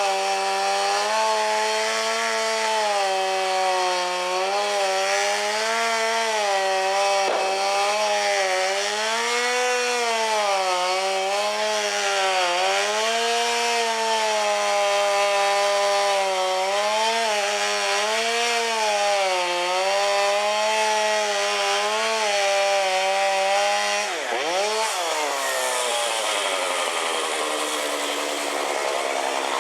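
Chainsaw running under load, cutting through wood. Its pitch sags and recovers as the chain bites, with one deep bog about three-quarters of the way through before it revs back up.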